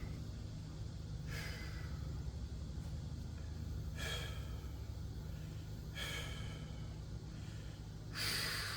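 A man breathing hard after a heavy deadlift, with four loud exhales about two seconds apart, over a steady low hum.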